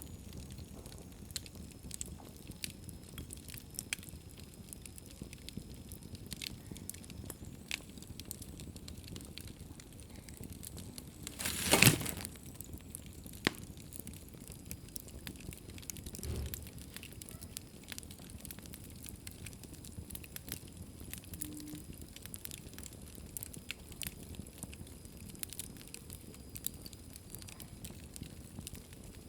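Wood fire burning in a fireplace: soft steady crackling with scattered sharp pops. One much louder burst of about half a second comes a little before halfway, and a smaller one a few seconds after.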